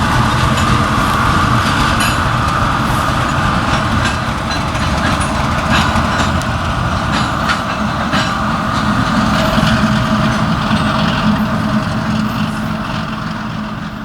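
Freight train wagons rolling past with a steady rumble, with scattered clicks and knocks from the wheels and couplings, easing off slightly near the end.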